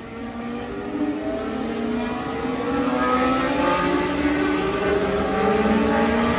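Several historic Formula One race cars accelerating at full throttle, their engine notes rising in pitch and growing steadily louder as they approach.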